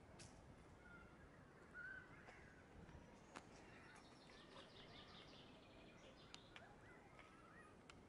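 Faint bird calls over a near-silent background: short whistles, then a quick series of chirps about halfway through and more curling calls near the end.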